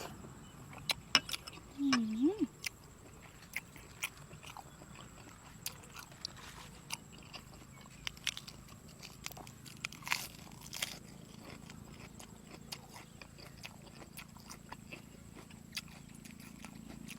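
Close-up eating sounds: biting and chewing of soy-sauce-pickled seafood, with many sharp crisp clicks and wet mouth noises scattered throughout, loudest in the first few seconds. A short hummed 'mm' comes about two seconds in.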